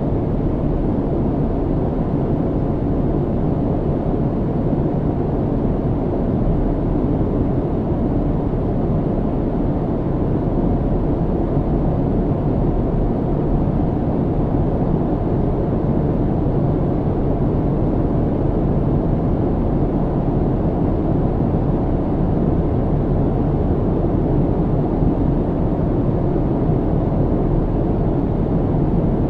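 Airplane cabin noise: a steady low rumble that holds constant throughout, with no changes or separate events.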